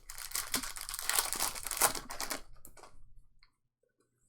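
Foil trading-card pack wrapper being torn open and crinkled, a dense crackling for about two and a half seconds that dies away about three seconds in.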